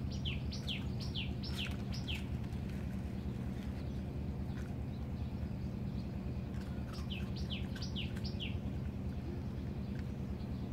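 A bird singing a quick run of about six whistled notes, each sliding downward, near the start and again about seven seconds in, over a steady low background rumble.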